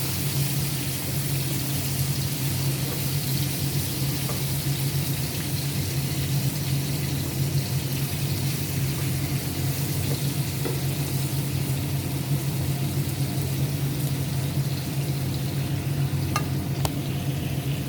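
Marinated chicken pieces frying in hot oil in a pan, a steady sizzle over a low steady hum, with a couple of sharp clicks near the end.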